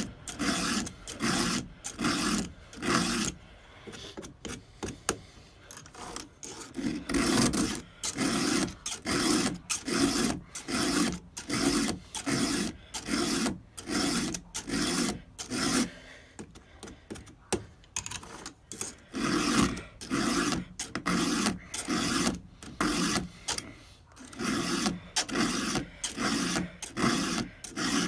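A 4 mm round file stroking across the cutter teeth of a Stihl 200T chainsaw chain, a run of rasping strokes about two a second, with a few short pauses between runs.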